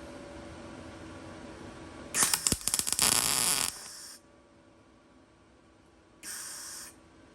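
MIG welder with .025 wire striking an arc on thin sheet steel: a harsh crackling and sputtering burst about two seconds in that lasts a second and a half, then a second, shorter burst near the end.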